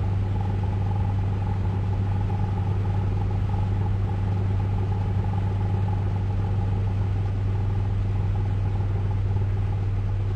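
Steady low hum of an automatic car wash in operation, heard muffled from inside a car in the wash bay, with a fainter steady higher tone over it and no sharp events.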